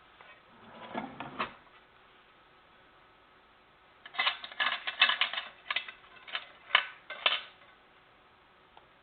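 Hard objects clicking and clattering in two bouts: a short one about a second in, then a longer run of sharp knocks and clicks from about four to seven and a half seconds in.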